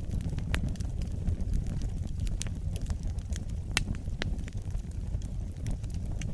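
Wood fire burning: a steady low rumble of flames with irregular sharp crackles and pops, one louder pop about four seconds in.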